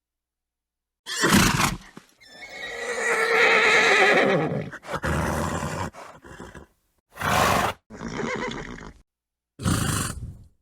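A horse neighs: one long, wavering whinny starting about two seconds in, with short breathy snorts before and after it, separated by dead silences.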